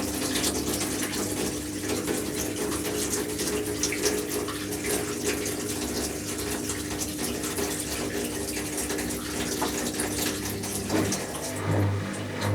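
Washing machine with water rushing and splashing inside it over a steady hum; the hum stops about eleven seconds in and a pulsing low drone follows.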